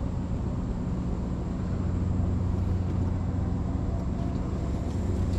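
An engine running steadily at idle: a low, even hum that holds unchanged throughout.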